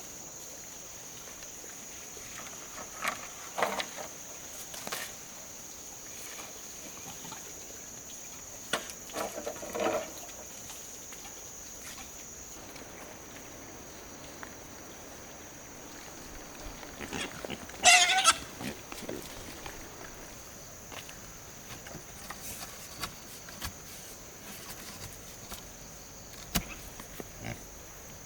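Farm fowl calling in three short bursts, the loudest about two-thirds of the way through, over a steady high-pitched insect drone.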